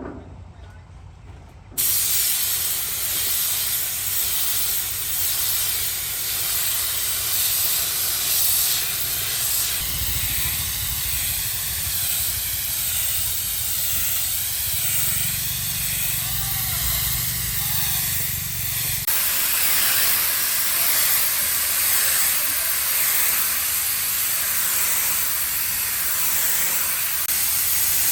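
A steady hiss of a pressurised spray or air jet, cutting in abruptly about two seconds in and getting a little louder and harsher about two-thirds of the way through.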